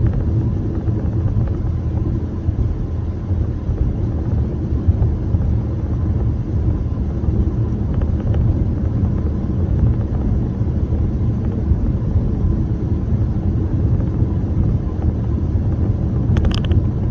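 Steady low rumble of a car in motion, heard from inside the cabin: road and engine noise, with a brief click near the end.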